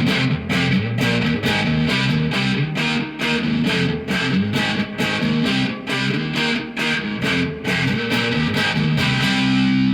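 Electric guitar played through a guitar amplifier with light distortion, strumming chords in a quick even rhythm of about three to four strokes a second, then letting a chord ring near the end.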